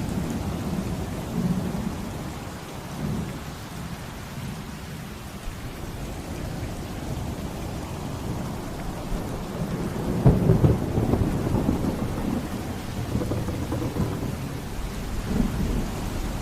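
Steady heavy rain with deep rolling thunder, the rumble swelling loudest about ten seconds in and easing off again.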